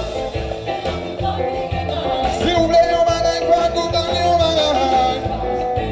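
Live band music with a steady bass and drum beat under a held, gliding sung melody.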